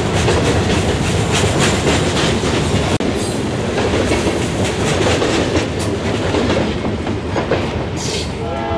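Freight train hopper cars rolling past close by: a steady rumble of wheels on rail with a run of clicks as the wheels cross rail joints.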